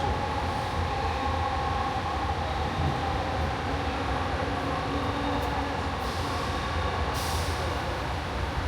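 JFK AirTrain car running between stations: a steady rumble with a steady whine from its linear-induction drive. A brief hiss comes about six to seven seconds in.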